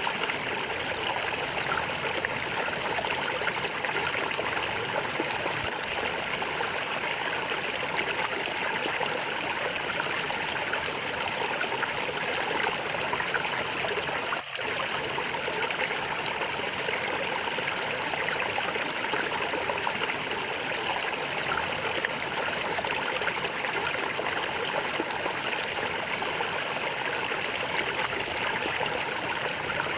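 Flowing water gurgling steadily, with a momentary drop in level about halfway through.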